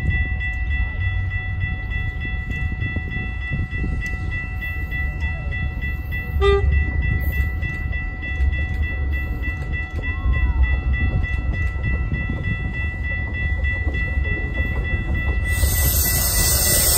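A train passing with a steady low rumble, under several steady high ringing tones. About fifteen seconds in, a loud rushing hiss comes in and the ringing stops.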